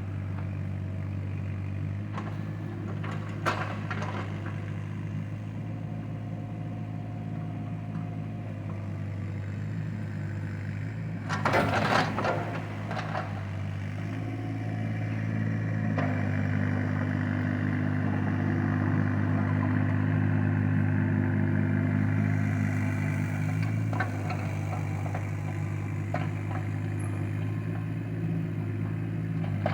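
An engine running steadily, getting louder and working harder for several seconds past the middle, then settling back. A loud crackling burst comes about twelve seconds in, with a few sharp clicks here and there.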